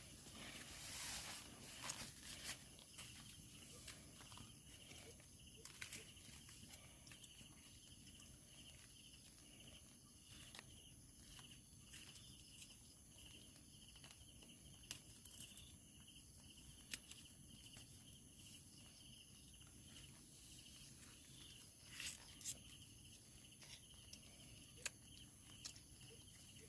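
Faint night insects chirping steadily in a high, pulsing chorus, with scattered soft clicks and knocks of handling.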